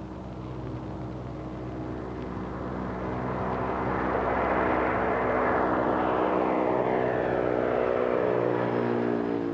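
Super Guppy Turbine transport aircraft flying past on its four turboprop engines: a steady propeller drone that grows louder to a peak about halfway through, then its pitch drops slightly as it passes.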